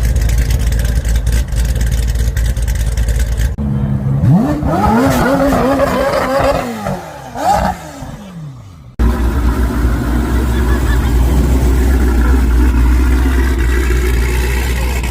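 A car engine at a car show revs up, holds high for a couple of seconds, drops away, then gives one short blip. Before and after the revving there is a steady low rumble.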